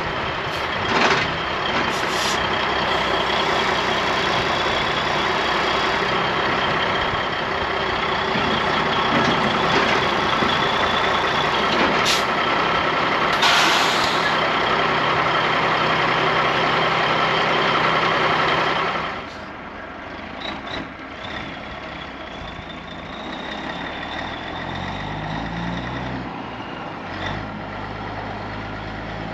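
Heavy diesel truck running hard with a steady high-pitched whine. About nineteen seconds in, the loud running drops away to a quieter idle, and the engine revs up briefly a few seconds later.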